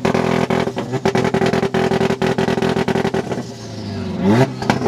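Car engine held on a two-step launch-control rev limiter, crackling with rapid pops and bangs from the exhaust for about three seconds. It then drops off and revs up again near the end.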